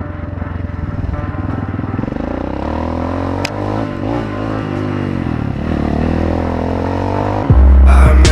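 Motorcycle engine running and revving, its pitch rising and falling. Loud bass-heavy music cuts in near the end.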